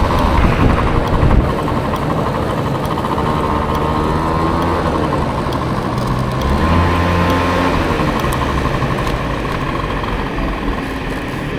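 Small motor scooter engine running steadily during a ride through city traffic, with a swell in the low engine sound about seven seconds in.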